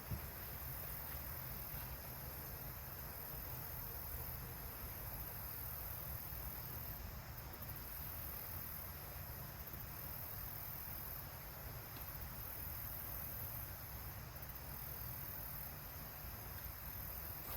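Insects, crickets or similar, trilling steadily in a high pitch, the chorus swelling and fading every couple of seconds, over a low steady rumble.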